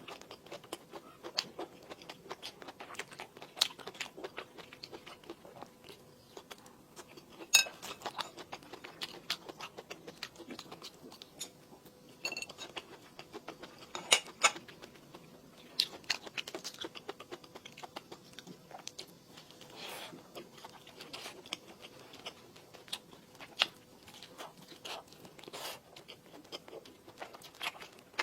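Close-miked eating and chewing: irregular small wet clicks and crunches from the mouth, with a few sharper louder ones.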